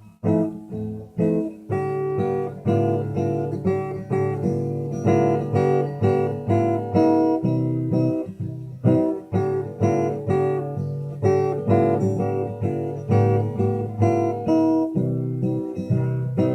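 Acoustic guitar strummed in a steady rhythm, an instrumental break between sung verses of a folk song.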